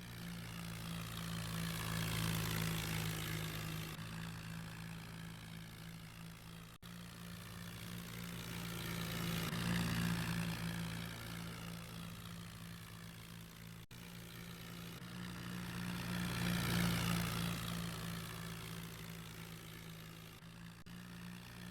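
Tractor diesel engine running steadily, its sound swelling louder and fading away three times.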